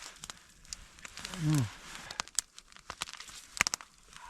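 Crinkling and rustling of plastic food packaging in short clicks and rustles, with a brief low hum of falling pitch from a person about a second and a half in.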